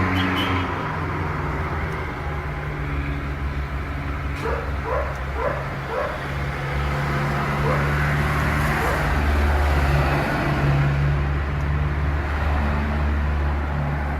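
A steady low engine hum, with a few short barks about a third of the way in.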